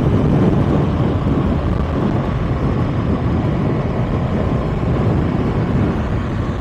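Kawasaki ZX-6R inline-four running steadily while being ridden on the road, heard as a loud, even, low-pitched rush of engine and riding noise.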